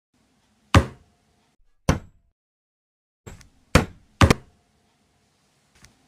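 A series of sharp knocks: four loud strikes at uneven intervals, the last two close together, with a softer knock just before them and a faint tick near the end.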